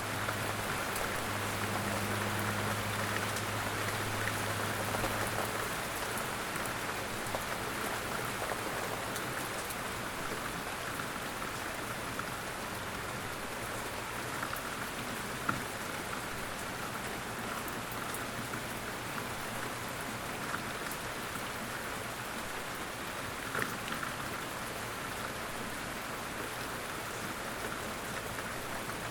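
Steady light rain falling, an even hiss scattered with individual drop taps, with two louder single drips about halfway through and again later. A faint low hum sits under the rain for the first few seconds.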